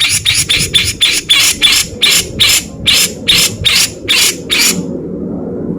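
Grey-cheeked bulbul (cucak jenggot) giving a fast run of harsh, rasping 'beset' notes, about three a second, that stops a little before five seconds in. A low steady hum lies underneath.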